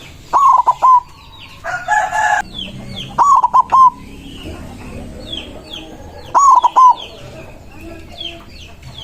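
White zebra dove (perkutut) singing its cooing phrase three times, about three seconds apart, each phrase a quick run of short notes. A brief, harsher call comes about two seconds in, and small birds chirp steadily behind.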